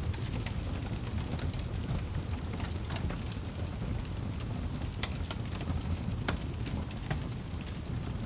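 Wood fire crackling: irregular sharp snaps and pops, several close together about three to five seconds in, over a steady low rumble of burning logs.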